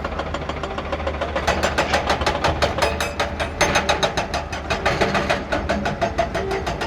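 Hyundai HX220S excavator's diesel engine running, with a steady rapid clatter of even pulses over a low hum.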